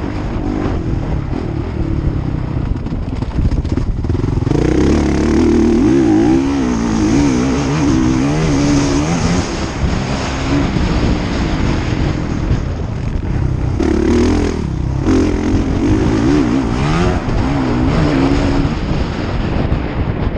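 Motocross bike engines revving on the track, the pitch rising and falling as riders open and close the throttle. One bike grows close and loud about four seconds in, and another passes loud again near fourteen seconds, after a brief drop.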